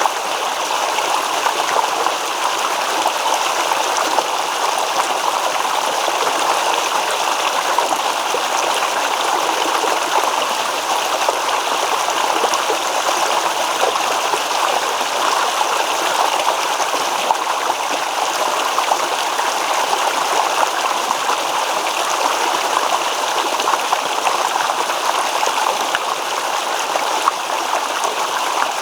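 Shallow stream babbling over stones, a steady rushing and gurgling of water without a break.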